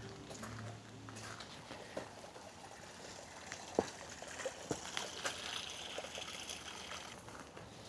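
Water trickling faintly, the splashing hiss growing stronger for a few seconds past the middle, with a few sharp ticks.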